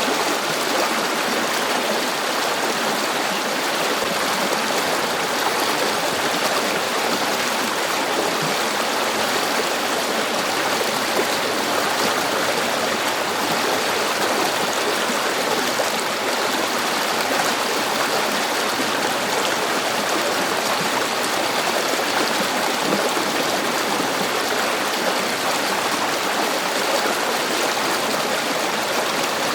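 River water flowing steadily over stones, an even rushing and babbling with no breaks.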